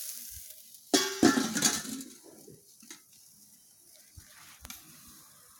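A single sharp clang about a second in, with a short ringing tone that dies away, followed by faint scattered ticks.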